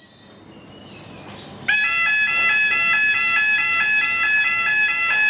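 Electronic two-tone alarm of a Thai railway station's blue lamp signal, alternating between two pitches about twice a second. It starts abruptly about a second and a half in and cuts off suddenly near the end.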